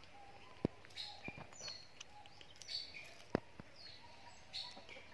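Birds chirping faintly in the background, short high calls repeating every second or so, with a few sharp clicks.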